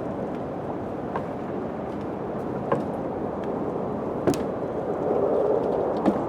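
Steady low wind blowing, swelling for a moment near the end, with a few sharp knocks scattered through it, the sharpest about four seconds in.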